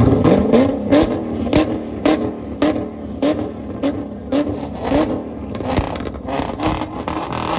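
Car engine on a two-step launch limiter, revving in repeated short blips with a sharp exhaust bang on each, about two a second.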